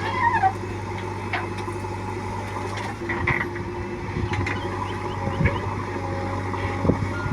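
Heavy diesel engine running steadily at idle-like speed, with scattered short knocks and clanks over it.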